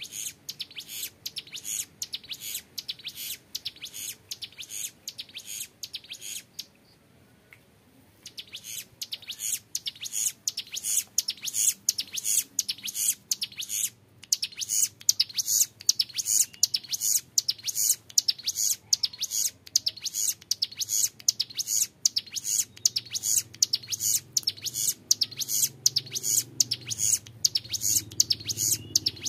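Young male ciblek gunung, a prinia, singing a long, high-pitched 'ngebren' song of fast repeated notes, with a pause of about two seconds near the start before the song resumes.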